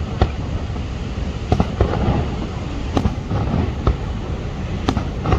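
Aerial fireworks bursting: about six sharp bangs spaced irregularly, over a steady low rumble.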